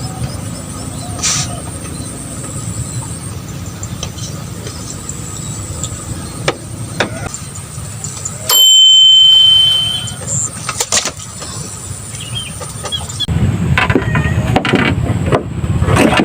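A loud, steady high-pitched beep lasting about a second and a half, about halfway through, over a steady low rumble with scattered clicks.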